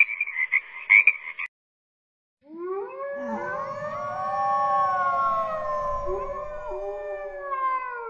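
A tree frog calls in a rapid pulsing trill that cuts off about a second and a half in. After a second of silence, several grey wolves howl together in long, overlapping howls that rise and fall in pitch.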